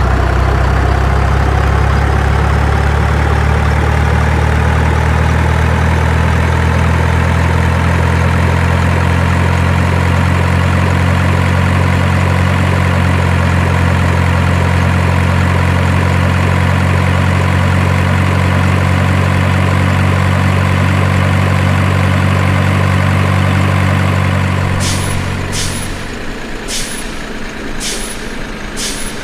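Heavy truck engine running steadily at idle, then dying away about 25 seconds in, followed by a quick run of sharp clicks.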